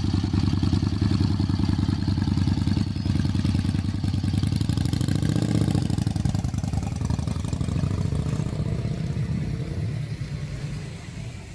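Excelsior-Henderson Deadwood motorcycle's V-twin engine running steadily as it rides off, then fading away over the last few seconds.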